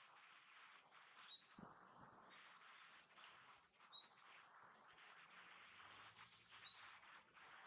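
Faint, short high-pitched bird chirps, one every two to three seconds, over a steady low hiss.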